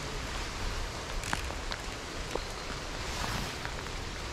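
Steady rain falling, an even hiss, with a few single drops ticking close to the microphone every second or so.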